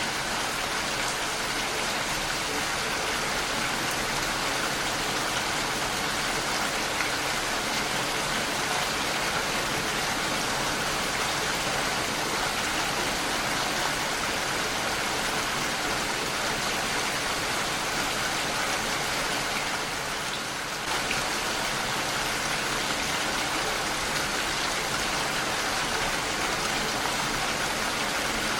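Heavy rain falling on a window, a steady, even hiss of drops with a brief slight dip in level about twenty seconds in.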